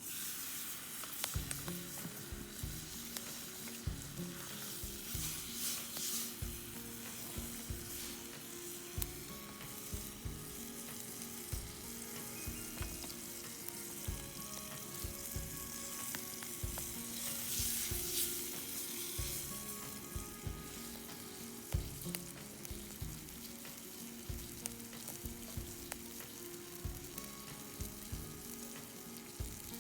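Food sizzling as it fries in a pan over a campfire, with stirring and frequent short knocks of utensil against pan.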